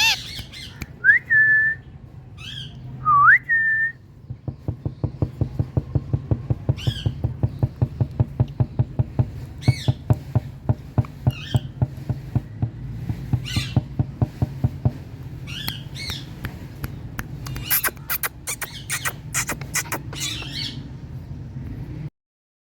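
Indian ringneck parakeet whistling two rising notes that level off, then giving short shrill calls every second or two, bunched together near the end. Under the calls is a rapid, even ticking of about five a second over a low hum, and the sound cuts off just before the end.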